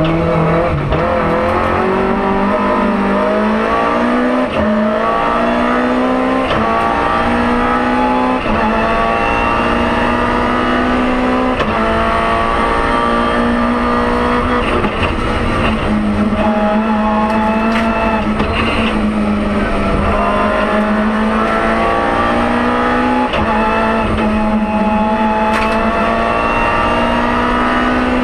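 BMW M3 E30 Group A rally car's four-cylinder engine, heard from inside the cockpit, revving hard again and again: the pitch climbs steadily, then drops at each gear change or lift for a corner.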